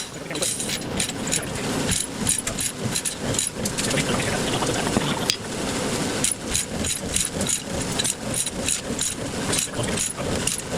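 Diesel engine of heavy equipment running steadily, with many metallic clinks and rattles of chain and rigging on top.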